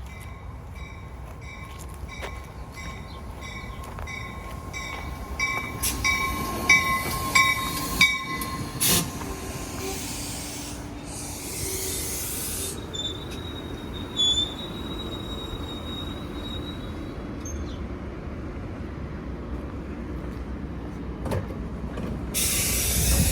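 NJ Transit train moving past, its wheels squealing with a rhythmic clicking for the first eight seconds or so. Two bursts of hissing follow, one about ten seconds in and one near the end.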